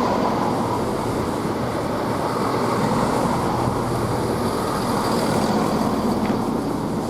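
Class 170 Turbostar diesel multiple unit running into the platform: a steady sound of its diesel engines and wheels on the rails.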